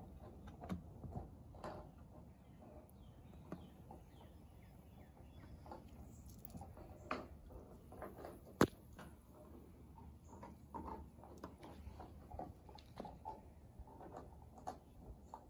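Faint, scattered clicks and light taps of small objects being handled, with one sharper click a little past halfway.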